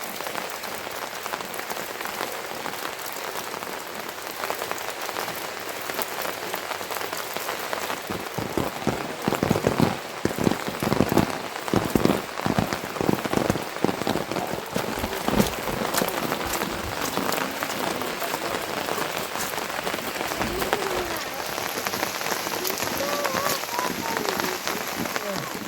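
Heavy rain falling steadily, with a thick stretch of loud, close drops or hits in the middle.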